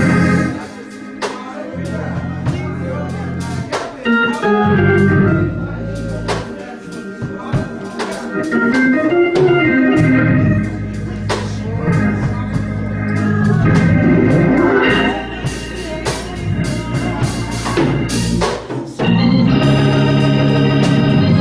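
Church organ playing sustained chords over a held bass line, the chords changing every few seconds.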